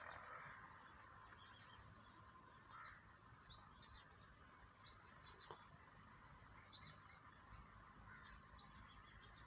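Faint background of a small bird chirping over and over, a couple of short chirps a second, over a steady high-pitched insect buzz.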